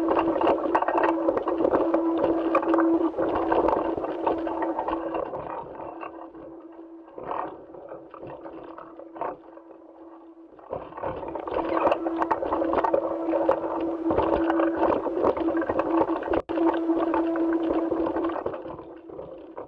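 Rustling, scraping movement noise over a steady hum, from the soundtrack of NASA spacewalk footage as an astronaut moves about. It is loud for the first several seconds, fades to a quieter stretch with a few knocks in the middle, and then swells again.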